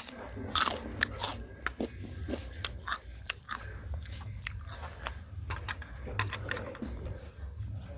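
Close-miked eating sounds of noodles being chewed, with many irregular sharp wet clicks and smacks of the mouth, over a steady low hum.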